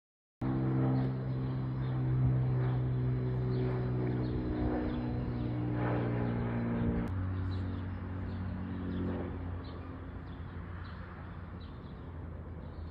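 Aircraft passing overhead: a steady engine hum whose pitch drops suddenly about seven seconds in, then slowly fades. Birds chirp faintly throughout.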